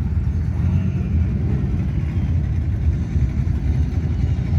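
Classic car engine running with a steady low drone as the car cruises along the street.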